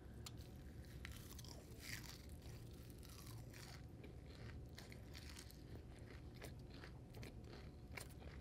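Faint chewing of crispy fried onion strings: soft, scattered crunches and mouth sounds.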